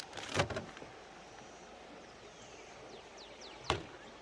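Steady rush of a running creek, with a few faint bird chirps. There is a brief noise just after the start and a single sharp knock near the end.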